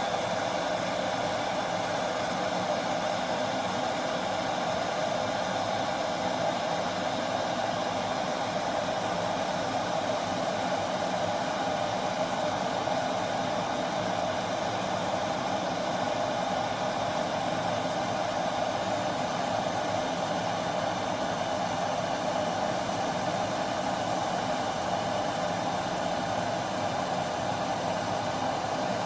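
Electric glass kettle heating water: a steady rushing noise that holds even throughout.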